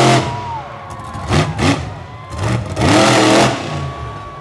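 Monster truck engine revving hard in repeated blips, the pitch climbing with each rev; two quick revs come in the middle and the longest, loudest rev about three seconds in.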